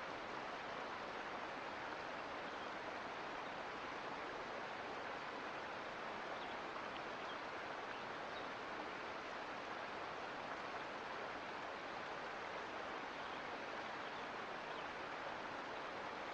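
Creek water flowing over rocks, a steady, even rush. Faint tiny ticks near the top of the sound may be splashes or insects.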